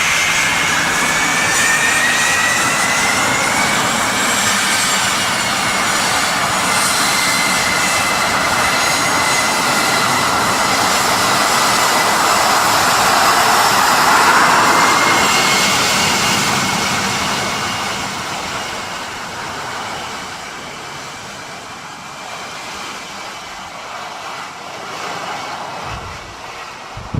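Engines of a large military transport plane, a C-17 Globemaster III or C-130, running with a high turbine whine over a broad rush of noise. The sound builds to its loudest about halfway through, then fades away over the last several seconds as the aircraft passes.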